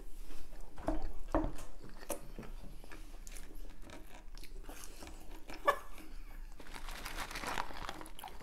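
Close-up chewing and biting of McDonald's French fries, with scattered small crunches and mouth clicks, and a brief rustle about seven seconds in.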